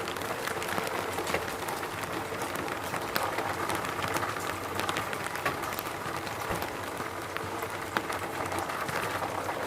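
Steady rain falling, with a dense patter of separate drops ticking throughout.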